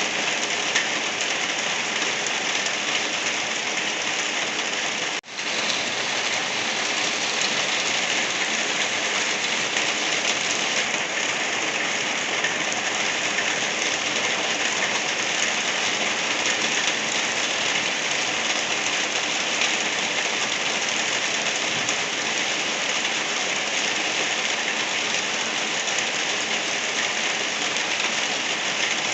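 Steady rain falling, an even hiss strongest in the upper range. It cuts out for a split second about five seconds in.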